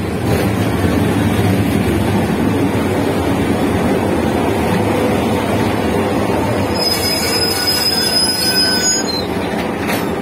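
A State Railway of Thailand passenger train passes close by: the Hitachi diesel-electric locomotive runs past, then its coaches roll by with a steady rumble. A high, thin metallic squeal comes in about seven seconds in and lasts about two seconds.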